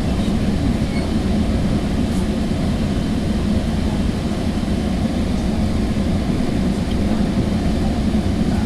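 Steady low rumble of a Sounder commuter train's passenger coach running along the rails, heard from inside the car.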